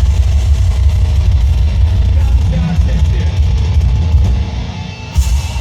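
Live heavy metal band playing loud, with heavy bass, drums and electric guitar. The song begins to wind down near the end, with a cymbal crash.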